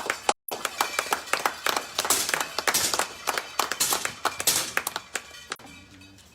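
Spectators clapping irregularly, many quick claps close together, dying away near the end.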